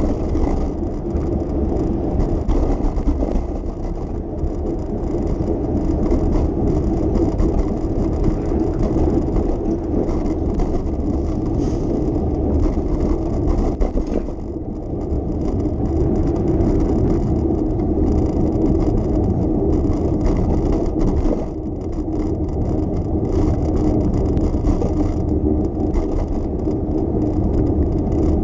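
Steady street noise heard from a moving bicycle: tyres rolling on the road, with city traffic passing.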